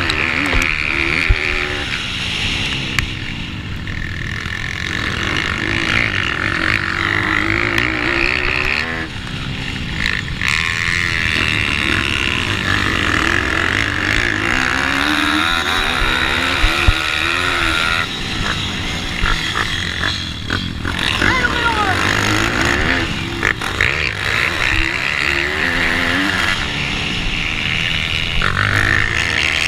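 Small pitbike engines racing, revving up and easing off over and over as the bikes go through the corners.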